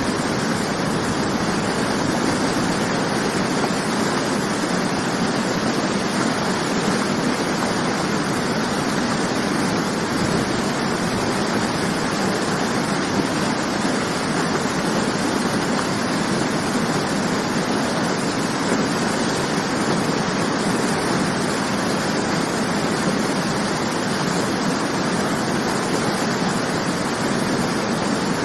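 Waterfall: water falling and splashing in a steady, even rush, with no breaks or changes.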